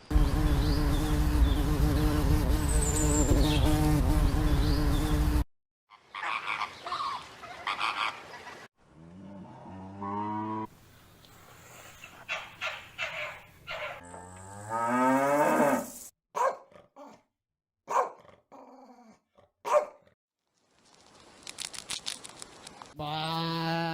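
A run of separately cut animal clips. First comes a loud, steady, noisy sound with a hum for about five seconds. After it come several long animal calls that glide in pitch, low and moo-like, together with a few short sharp clicks.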